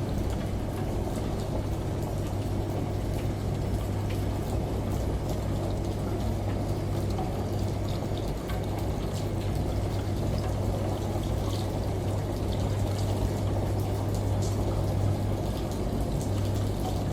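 Steady layered home ambience of running water and rain, with a low steady hum beneath that fits a washing machine running. Faint scattered drop ticks sit over the even rush of water.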